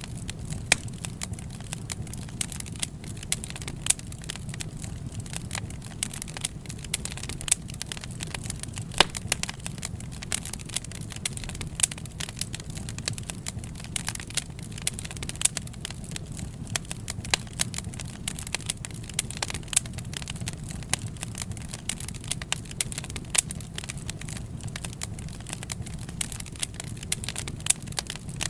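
Wood fire crackling: a dense, irregular scatter of sharp pops and snaps over a steady low rumble.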